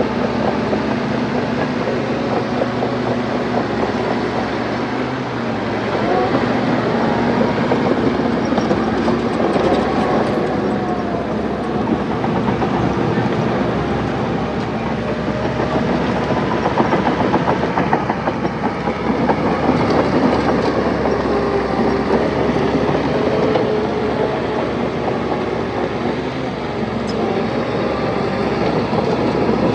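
Bulldozer's diesel engine working under load, its pitch rising and falling, with the clatter of its steel tracks.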